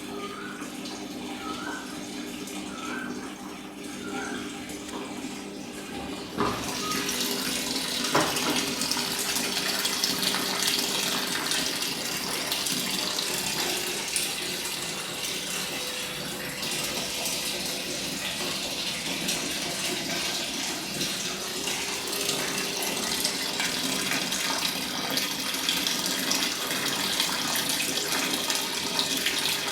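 LG WF-421SPC fully automatic washing machine filling: a low steady hum, then about six seconds in water suddenly starts rushing in and keeps pouring steadily into the tub.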